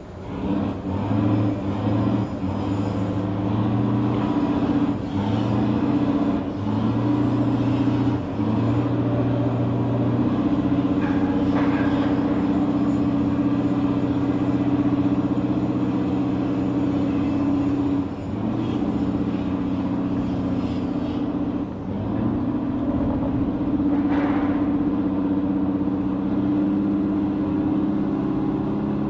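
Heavy engine running steadily with a low, even drone that starts just after the beginning and shifts in pitch a few times.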